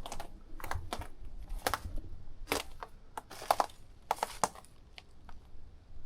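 Footsteps crunching, about six uneven steps over the first four and a half seconds, then fading away.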